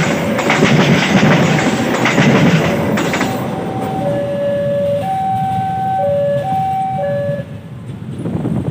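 A train runs past with a loud rumble and wheel clatter on the rails. From about three seconds in, a two-tone locomotive horn sounds a run of alternating high and low notes, ending near the end.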